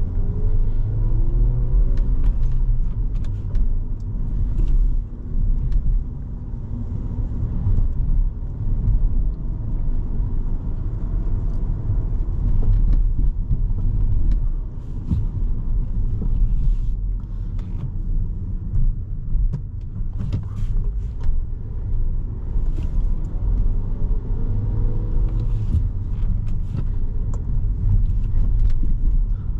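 Cabin noise of a 2017 Volkswagen Jetta SE being driven: a steady low rumble of engine and road. The engine pitch glides up and down about a second in and again near the end.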